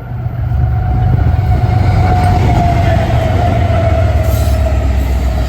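Freight train passing close by: a heavy, steady low rumble of the locomotives and cars, with a single clear tone above it that falls slightly in pitch about halfway through.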